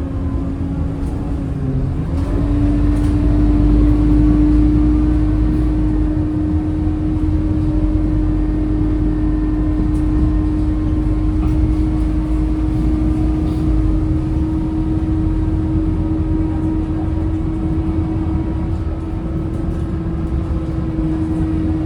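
Scania K230UB bus's five-cylinder diesel engine running, with a low rumble and a steady whine that steps up in pitch about two seconds in and then holds level. The rumble is loudest for a few seconds from about three seconds in.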